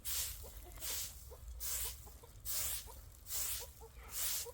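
Repeated swishing or scraping strokes, a little more than one a second, with faint short clucks of chickens between them.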